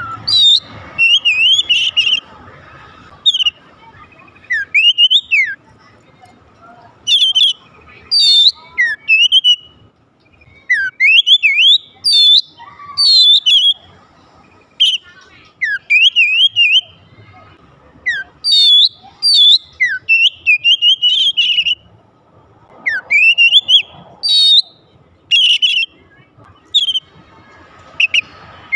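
Oriental magpie-robin (kacer) singing: loud phrases of rapid whistles, slurred up-and-down glides and trills, coming in bursts every second or two with short pauses between.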